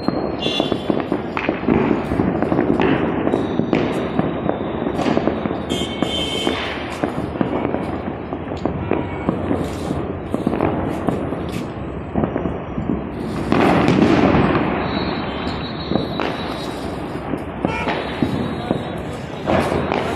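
Diwali fireworks and firecrackers going off continuously: a dense crackle of many sharp bangs, at its loudest about two-thirds of the way through.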